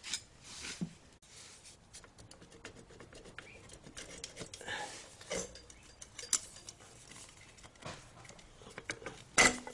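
Light, scattered metallic clicks and taps of a dirt bike's exhaust header pipe and its springs being handled as the pipe is worked off, with one sharper clack near the end.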